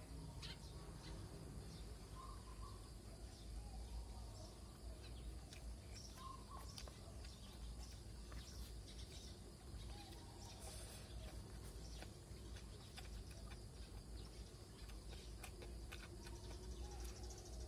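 Faint outdoor ambience: a steady low rumble with short bird chirps every few seconds, and scattered light clicks close by.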